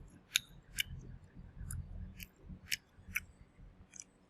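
Crispy fried chicken being chewed: a series of sharp, crackly crunches about two a second.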